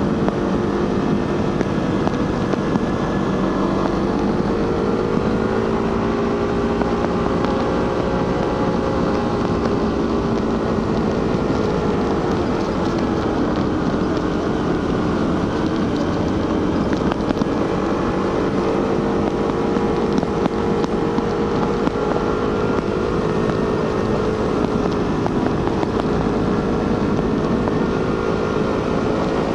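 Suzuki GSX-R150's single-cylinder engine running through its stock exhaust while riding at steady revs, the pitch sinking gently about halfway through and climbing back, with wind rushing over the microphone.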